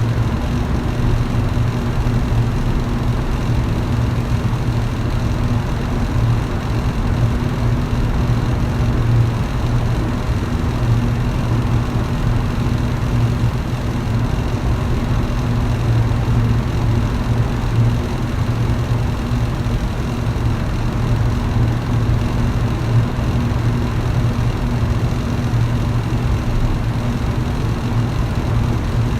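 Electric fan running steadily: a constant low motor hum under an even rush of air, with no change in speed.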